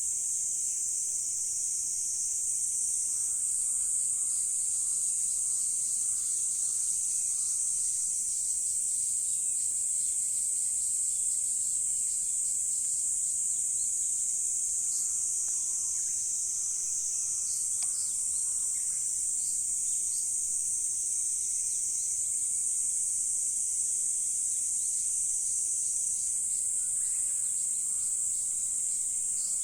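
Steady, high-pitched chorus of insects calling without a break, with a few faint short chirps about halfway through.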